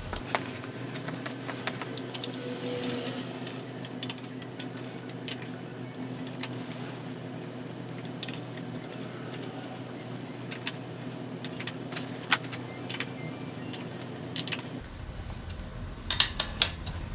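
Small metal parts and hand tools clinking during engine work: irregular sharp clicks and taps, over a steady low hum.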